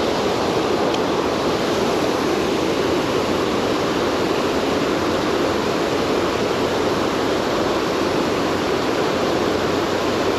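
River water rushing steadily: an even, unbroken noise of flowing current.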